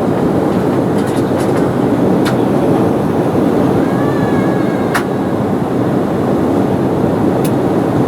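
Embraer 190 airliner cabin noise in flight: a steady loud rumble of engines and rushing air, with a few scattered light clicks and a faint brief whistle about four seconds in.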